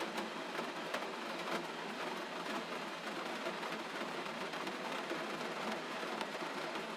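Steady gentle rain, an even hiss with faint scattered drop ticks and no low rumble.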